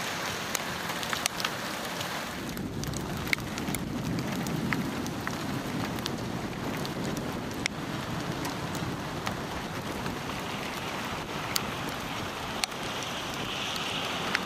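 Steady rain with scattered individual drops ticking sharply on a hard surface close to the microphone.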